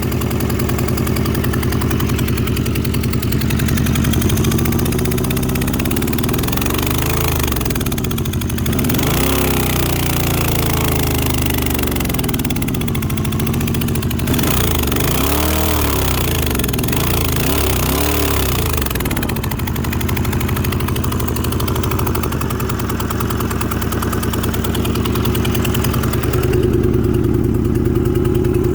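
Motorcycle engine running at idle, its speed rising and falling several times in the middle.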